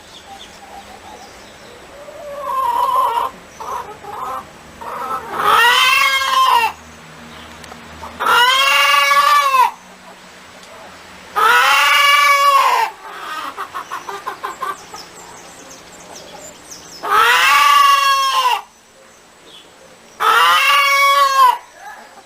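Chickens cackling: runs of short, quick clucks and five loud, drawn-out calls, each rising and then falling in pitch.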